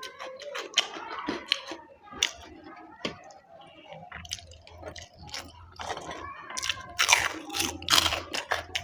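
Close-up eating sounds: chewing, crunching and wet mouth smacks, in quick irregular clicks, loudest about seven to eight seconds in.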